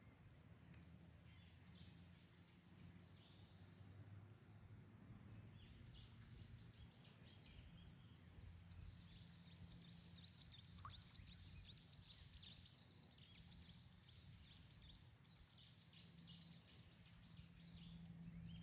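Faint outdoor pond-side ambience with a low steady hum. From about a third of the way in, a long run of quick, high chirps from small creatures repeats rapidly. A thin high steady tone fades out early on.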